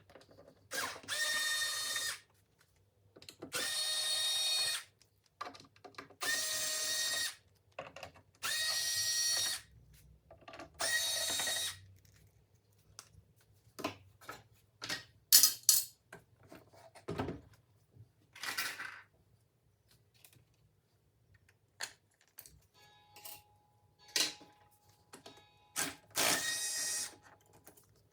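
A small electric motor whirring in five short runs of about a second each, at a steady pitch, then clicks and knocks of handling, with one more short run near the end.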